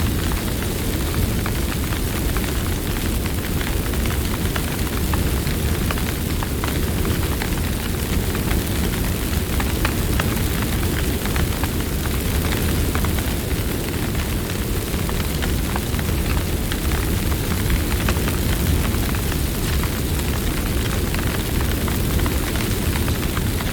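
Campfire burning with a steady low rumble of flames and frequent small crackles and pops of burning wood.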